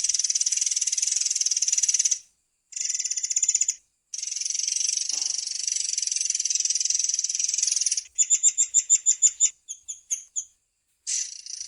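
A murai air (long-tailed sibia) singing a long, high, buzzing rolled trill, broken by a few short gaps. About eight seconds in, it switches to a run of about a dozen clear notes at roughly seven a second. After a brief pause the roll starts again near the end.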